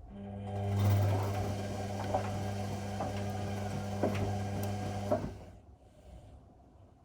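Whirlpool washing machine running for about five seconds, a steady hum with scattered clicks and knocks, then stopping.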